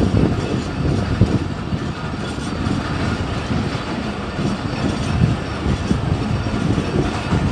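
Passenger train running along the track, heard from inside a coach at an open door: a steady rumble of wheels on the rails.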